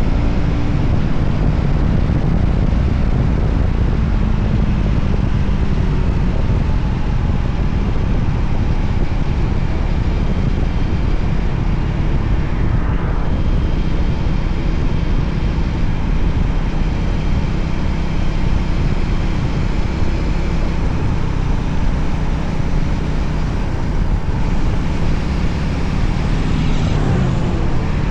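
Voge 300ACX motorcycle running steadily on the move, its engine mixed with road and wind noise, with brief rises and falls in pitch about halfway and near the end.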